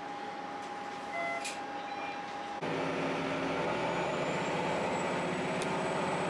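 Diesel railcar running, heard from inside the car. About two and a half seconds in, the sound suddenly gets louder into a dense, pulsing engine rumble.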